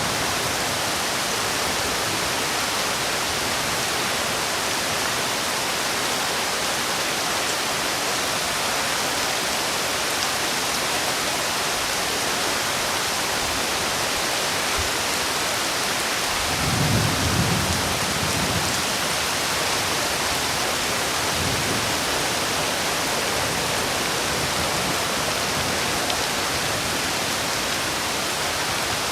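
Steady rain falling, with a low rumble of thunder a little past halfway through and a fainter one a few seconds later.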